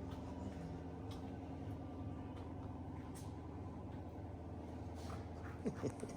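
A steady low motor hum, with a few short gliding sounds near the end.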